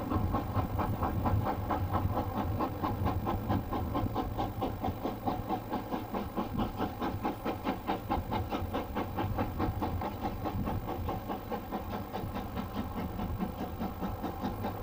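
A train engine running with a steady, fast rhythmic beat.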